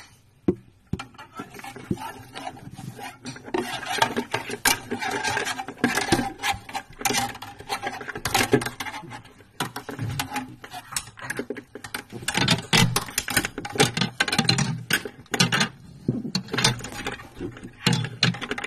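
Steel wire being pushed and worked down a refrigerator's plastic drain tube, giving irregular scraping and clicking of metal against plastic as it probes the clog. The refrigerator compartment's drain pipe is blocked, so meltwater pools inside the fridge instead of draining.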